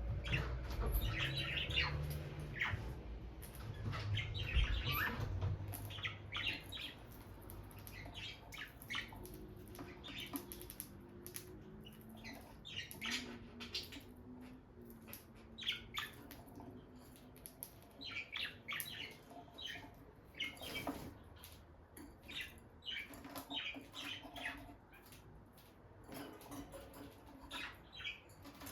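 Peach-faced lovebirds chirping: many short, sharp chirps in quick clusters throughout, with a low rumble of movement during the first six seconds.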